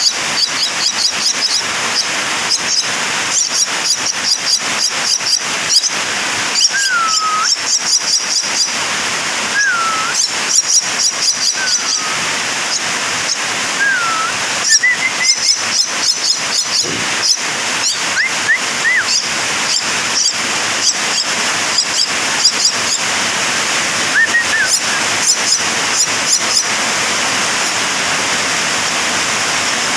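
Birds chirping in rapid, high-pitched runs over a steady hiss, with a few separate short whistled notes that slide up and down.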